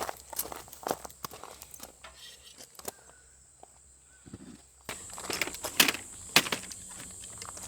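Light footsteps and rustling on the ground, irregular clicks and knocks, over a steady high insect chirring. The rustling gets louder about five seconds in, with two sharper knocks soon after.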